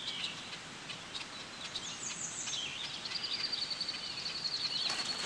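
Wild birds singing: scattered high chirps, a quick falling run of notes about two seconds in, then a long even trill from about three seconds in.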